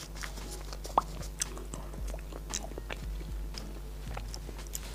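Close-miked eating of a large soft taro snow-skin mochi (xuemeiniang): wet chewing and lip-smacking with scattered short clicks, the sharpest about a second in, along with light crinkling as its plastic wrapping is handled.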